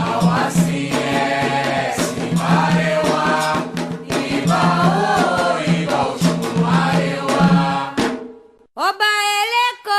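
Afro-Brazilian devotional chant (a ponto for Xangô): several voices singing together over rhythmic percussion. The singing stops about eight seconds in, and after a short pause a single voice starts the next song alone.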